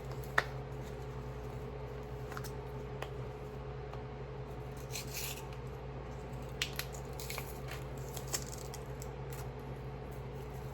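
Dried seasonings being shaken from spice containers into a bowl: a sharp click from a container lid, then scattered brief, faint rustling shakes, over a steady low hum.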